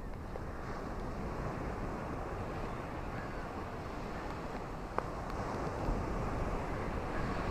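Ocean waves washing on a beach: a steady rushing surf that swells louder near the end, with one sharp click about five seconds in.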